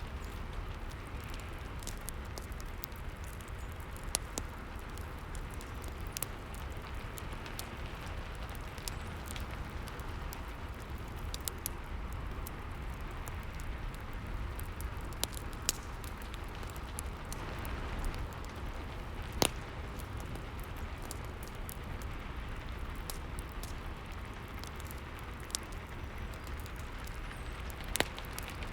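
Steady rain with a fireplace crackling over it: irregular sharp pops and snaps, a few louder ones standing out, about 19 and 28 seconds in the loudest.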